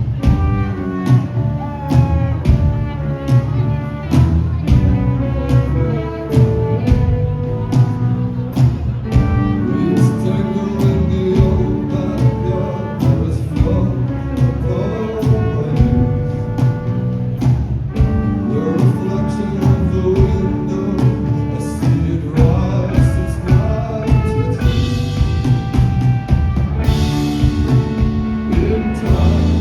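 Live rock band playing an instrumental passage of a song through a concert PA, with drums hitting steadily over bass and guitar lines.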